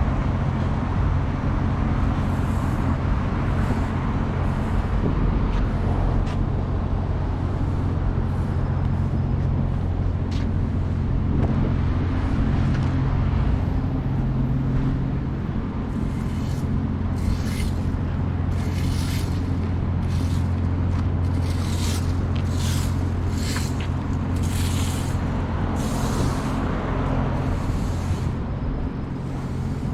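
Road traffic on a city street: a steady low rumble of passing cars. In the second half there is a run of short hissing sounds, about one a second.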